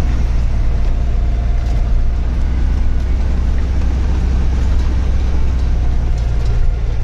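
Truck engine running steadily with a constant low drone.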